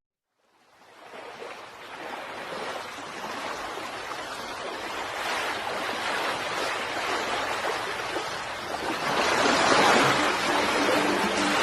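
Rushing water, surf or a stream, fading in from silence about a second in and growing gradually louder. Faint steady musical tones join it near the end.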